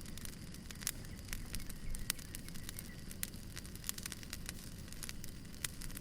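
Wood fire burning, with irregular sharp crackles and pops of firewood over a steady low rumble.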